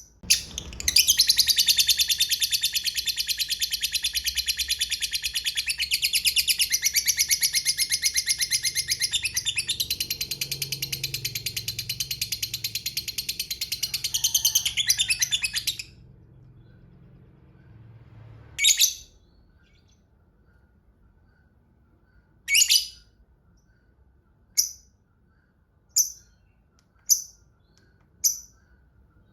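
Lovebird giving a long, rapid, high chattering trill (the 'ngekek' prized by keepers) for about fifteen seconds; it then falls to single sharp chirps ('ngetik') a second or few apart.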